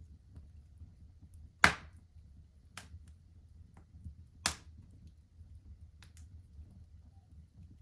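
Wood fire in a fireplace crackling: a few sharp pops, the loudest about one and a half seconds in and another at about four and a half seconds, over the faint low rumble of the flames.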